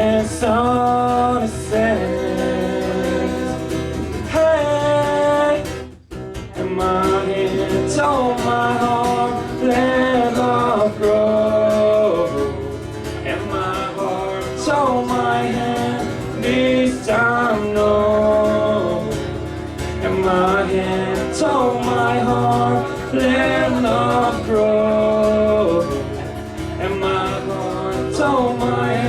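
A band playing a passage without sung lyrics: a melodic lead line over guitar and bass. The music breaks off briefly about six seconds in, then picks up again.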